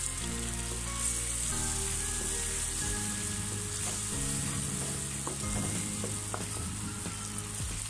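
Sliced onions, green chillies and freshly added ground spices sizzling in hot oil in a non-stick wok while a wooden spatula stirs them. This is the early frying of the masala for a curry.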